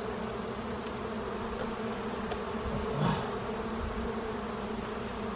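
Honeybee colony buzzing steadily in an opened hive, a continuous hum. A brief louder sound stands out about three seconds in.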